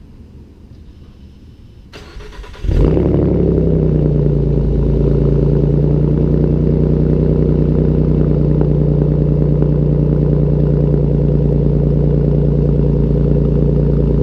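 Ford Mustang V6 being started: the starter cranks briefly about two seconds in, then the engine catches with a short rev flare and settles into a steady idle.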